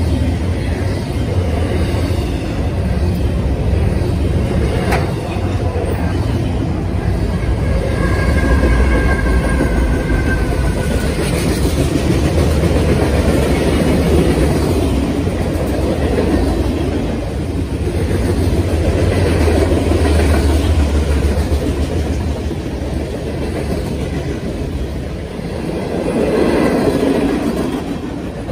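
Norfolk Southern freight cars (double-stack container cars and boxcars) rolling past close by: a steady rumble of steel wheels on rail with clickety-clack from the rail joints, rising and falling as car after car goes by.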